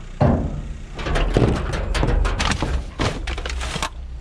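Metal scrap pots being handled and loaded into a car: a run of clanks, knocks and thuds from just after the start to near the end. A car engine idles underneath as a steady low hum.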